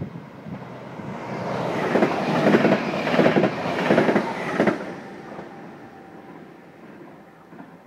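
SBB double-deck electric passenger train passing close at speed. Its wheels clatter in a run of sharp strokes at the loudest point, then the sound fades as it moves away.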